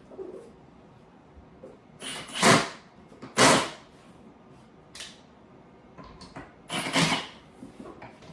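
Parts of a flat-pack wooden chair being handled during assembly: four short scraping and knocking sounds about a second apart, the two loudest close together a few seconds in.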